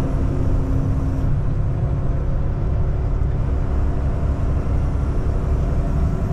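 Kenworth T680 semi truck cruising at highway speed, heard from inside the cab: a steady low drone of diesel engine and road noise. A faint steady hum over it fades out about a second in.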